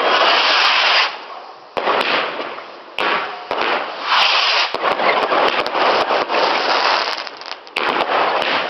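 Fireworks going off in a display: dense crackling and sharp bangs arriving in waves, a fresh surge every second or two.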